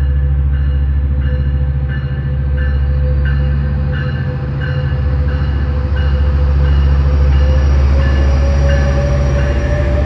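Train running through with a heavy diesel locomotive rumble, and a bell ringing steadily, a little under twice a second. A steady tone underneath rises slightly in pitch near the end.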